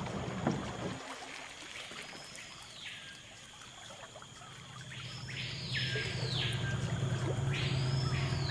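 A bird calling about four times, each call a note that sweeps up in pitch and falls back down; two calls overlap just past the middle and are the loudest. Under them there is a steady faint high tone, and a low hum comes in about halfway.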